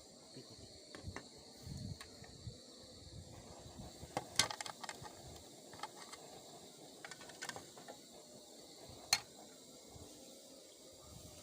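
Camp cooking utensils being handled: scattered light clicks and clatters, with a cluster of them about four seconds in and one sharp click about nine seconds in.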